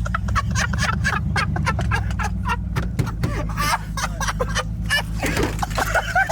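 Ford Focus engine running steadily with a low hum, with many short, sharp chirping or clicking calls over it.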